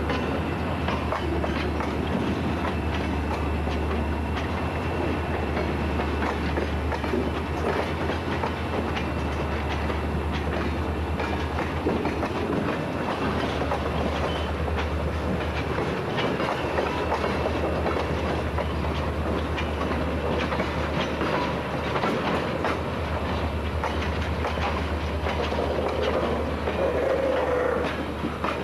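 Guilford Rail System freight train with diesel locomotives: a steady low engine rumble with frequent clicking and rattling, and a brief louder tone near the end.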